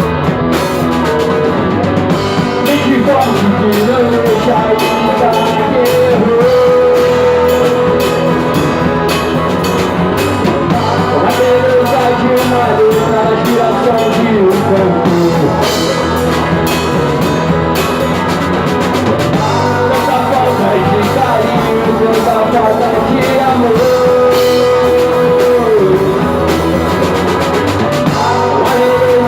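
Rock band music with drum kit and guitar, with a melody line that holds long notes.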